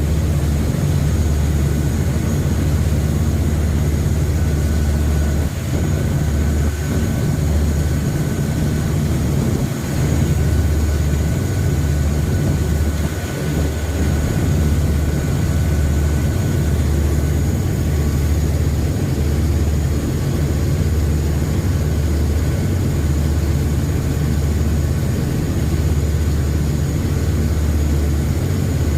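A passenger river boat's engines running steadily, heard on board as an even, low drone.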